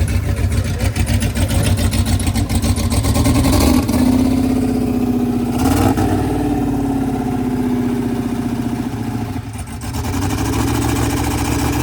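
Twin-turbo LS V8 in a Mercedes-Benz limo held at high revs for a burnout. The revs climb about four seconds in, sink slowly, dip briefly near the end and then pick back up.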